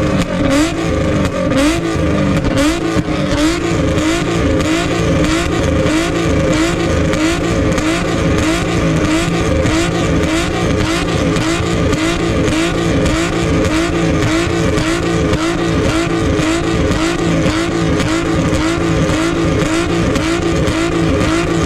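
Car engine revving hard in quick repeated surges, about two a second, the pitch rising and dropping with each one without a break.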